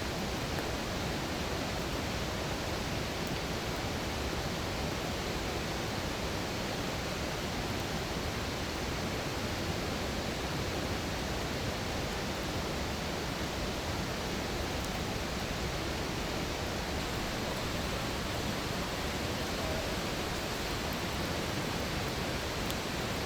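Campfire burning, with a steady, even rushing hiss and a few faint crackles near the end.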